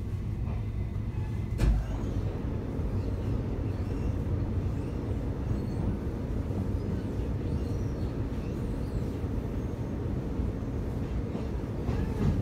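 Steady rumble of a commuter train heard from inside the passenger car while it runs, with one short thump a little under two seconds in.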